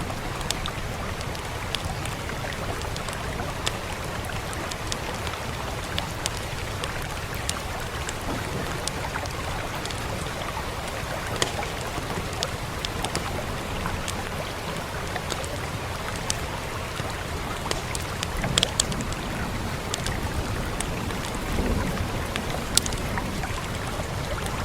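Wood fire crackling over steady rain: scattered sharp pops and snaps, a few louder than the rest, above a constant rain hiss with a low rumble underneath.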